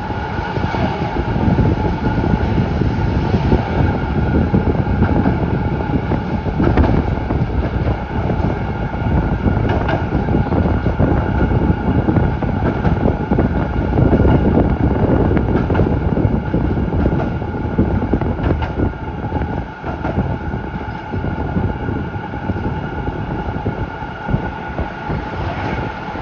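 Z3-class tram running along the track, heard from on board: a steady rumble of wheels on rail, with a faint steady whine above it.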